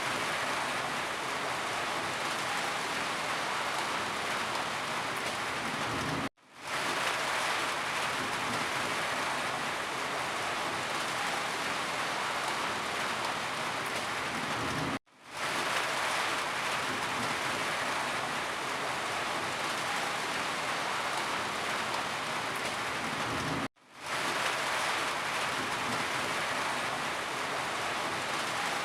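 Steady, heavy rain falling, an even hiss of drops. It cuts out to silence for a split second three times, at evenly spaced intervals.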